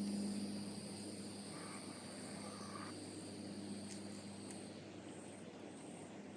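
Insects calling outdoors: steady high-pitched trilling that turns into short repeated pulses near the end, over a low steady hum.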